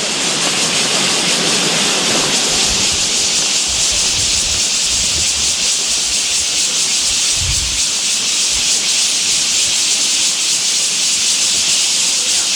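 Loud, steady high-pitched chorus of forest insects, an unbroken hiss with no rhythm or pauses.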